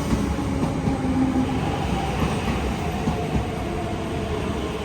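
MTR East Rail Line R-train pulling into the station: a steady rumble of wheels on rail with a faint motor whine that drifts slowly down in pitch as it brakes.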